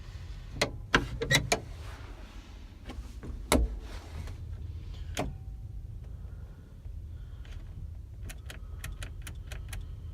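A vehicle's low, steady engine rumble, with several sharp knocks and rattles in the first few seconds and a quick run of light clicks near the end.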